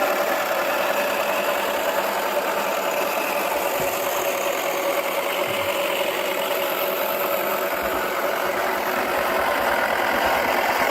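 Toy washing machine's small electric motor running steadily, spinning its drum.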